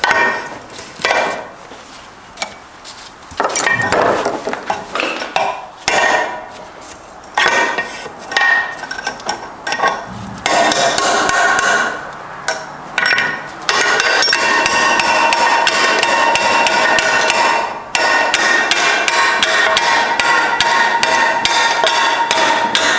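Hammer blows on the metal parts of a Subaru STI six-speed transmission being taken apart, each blow ringing. The blows are scattered at first, then come in a fast, unbroken run over roughly the last nine seconds.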